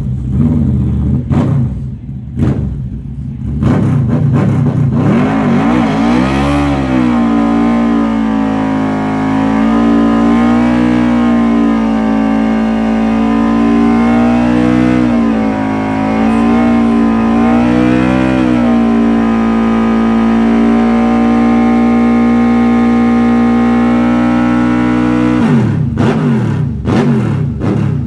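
Motorcycle engine blipped a few times, then revved up about six seconds in and held at high revs with small wavers for about twenty seconds, as in a burnout, before the revs drop back near the end.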